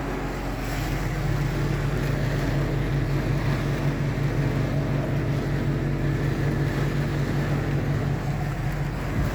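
Strong wind and heavy rain, with the steady low hum of an engine running underneath.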